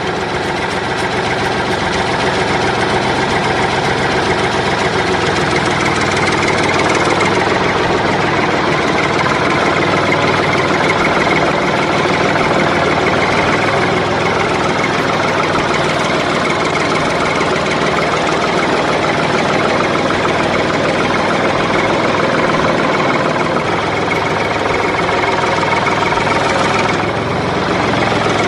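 Tractor engine idling steadily, with a slight change in tone near the end.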